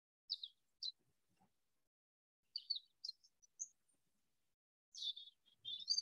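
Small songbirds chirping: three brief flurries of quick, high chirps, the last one the busiest.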